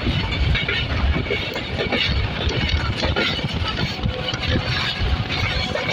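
Passenger train running along the track, heard from aboard: a steady rumble with irregular rattling and clatter from the wheels and coach.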